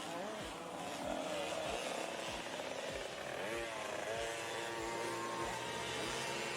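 Small 50cc two-stroke youth motocross bikes racing on a dirt track, their engines revving with pitch rising and falling as they go round.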